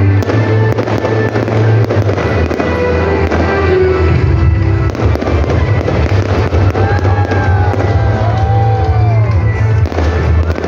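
Aerial fireworks popping and crackling in quick succession, over loud show music with a heavy bass.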